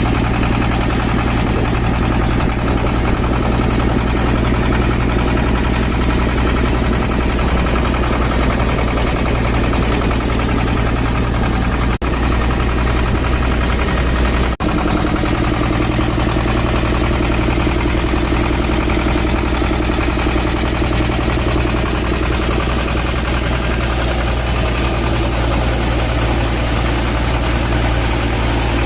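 SAME 36 DI tractor's two-cylinder diesel engine running steadily. The sound cuts out for a split second twice, about halfway through.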